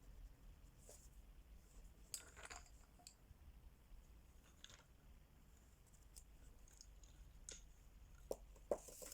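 Quiet, scattered clicks and taps of wax crayons being handled, picked up and set down, the loudest near the end.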